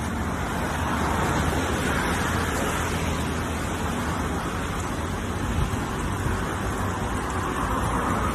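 Storm wind and heavy rain: a dense, steady rushing noise with a low rumble, swelling in gusts about a second in and again near the end.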